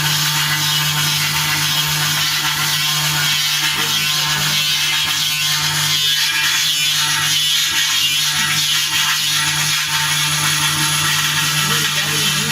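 CNC engraving machine's spindle running steadily, a constant high hiss over a steady low hum.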